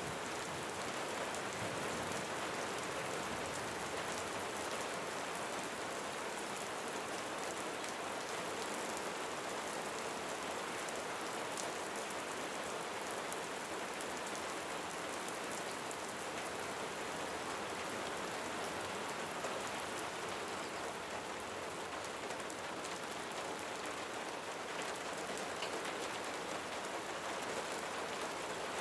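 Steady rain falling on a roof, a constant even hiss of rainfall sprinkled with many small drop impacts, at an unchanging level throughout.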